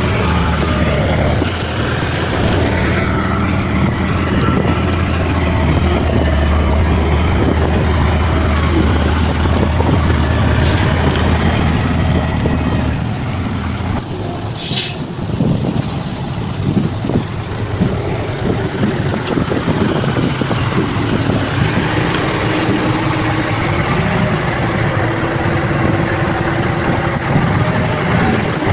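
Heavy diesel engine of a bulldozer running under work, its low steady note dropping away about halfway through and rising again to a wavering higher pitch near the end. A brief sharp noise halfway through.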